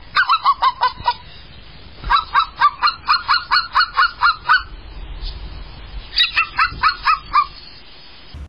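Rapid runs of short, pitched animal calls, about five or six a second, in three bouts: one at the start, a longer one from about two seconds in, and a short one near the end.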